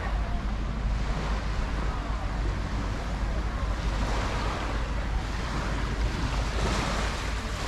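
Small sea waves washing onto the beach, rising and falling about four seconds in and again near the end, over a steady low rumble of wind buffeting the microphone.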